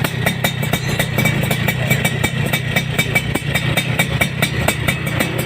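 Suzuki Satria RU two-stroke single-cylinder motorcycle engine running steadily through an aftermarket Raptor racing exhaust, with a crisp, rapid, even popping note.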